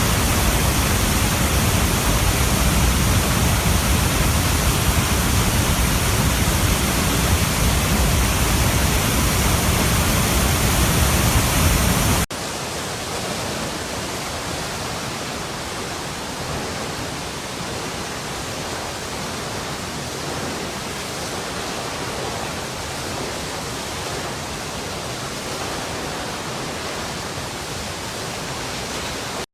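Running water rushing in a steady, even roar. About twelve seconds in it cuts abruptly to a quieter, thinner rush with much less low rumble, which carries on unchanged.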